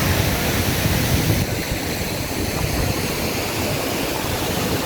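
Waterfall: a steady, dense rush of falling water, its hiss turning slightly duller about a second and a half in.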